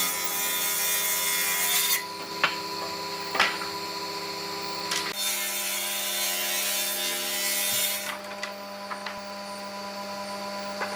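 Woodworking power tool running with a steady motor whine, the rush of it cutting into wood coming and going in stretches, with a couple of sharp knocks of wood against wood.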